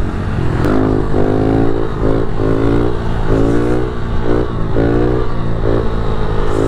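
Small pit-bike engine revving hard in repeated bursts, its pitch climbing and dropping about six times, as a rider works the throttle through a run.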